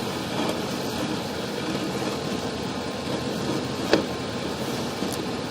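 Steady running noise like an idling engine, with one sharp click about four seconds in.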